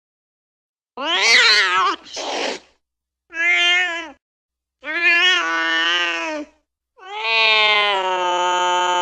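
Domestic cat yowling: four drawn-out calls with a wavering pitch after a second of silence, the first one quavering, the last long and held.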